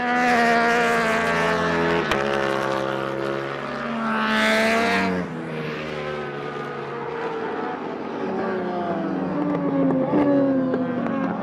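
Yamaha YZF-R9 racing motorcycle's three-cylinder engine at high revs on track, its pitch climbing and dropping with throttle and gear changes. There is a sharp break about two seconds in, a louder climb that drops off about five seconds in, and then a long steady climb.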